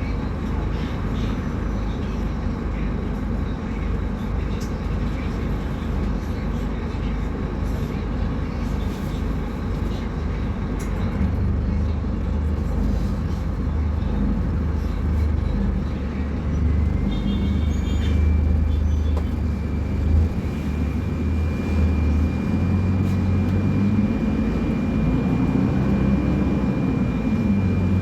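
Scania K250UB city bus engine running, with a ZF Ecolife automatic gearbox. Partway through it pulls harder with a deeper drone whose pitch steps a few times, and a steady high whine sets in past the middle. Brief high beeps sound once.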